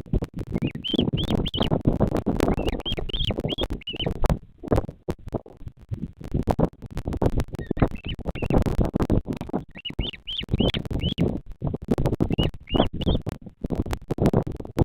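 High-pitched peeping from a bearded vulture chick in about five short bursts of quick chirps, over a loud, continuous crackling rustle on the nest microphone.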